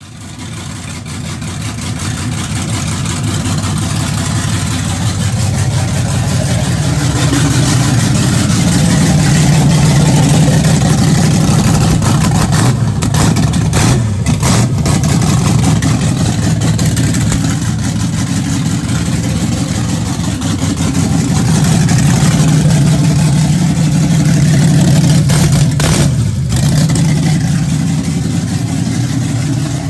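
A 5.3-litre LS V8 running on its first start-up, loud through open header collectors with no exhaust fitted. It builds over the first few seconds and then holds steady, dipping briefly about halfway through and again near the end.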